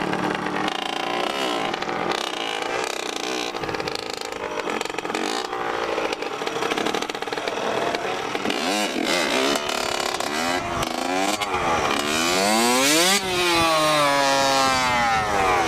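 Several dirt bike engines revving, their pitch repeatedly rising and falling with throttle and overlapping one another. They grow louder over the last few seconds as the bikes come close.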